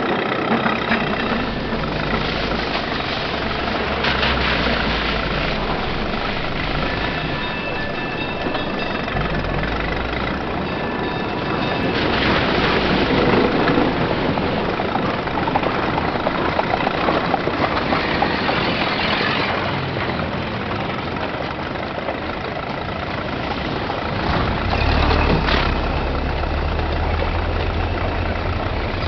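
Dubbed-in street traffic sounds of early motor cars: old engines chugging and idling over a busy, clattering street din. A low engine idle grows stronger near the end.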